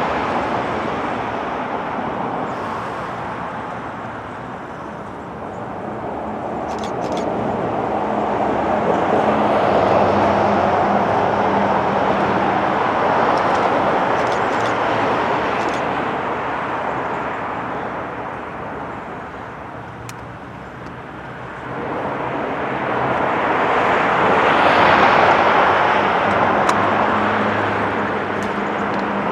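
Road traffic: vehicles passing by, their tyre and engine noise swelling and fading twice, once about a third of the way in and again near the end.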